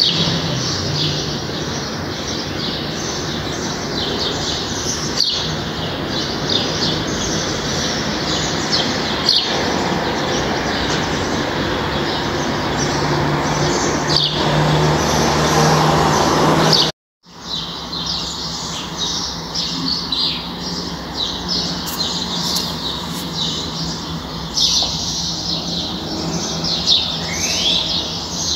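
Many small birds chirping and twittering in quick, overlapping calls, over a steady low hum. The sound cuts out completely for a moment about seventeen seconds in, then the chirping resumes.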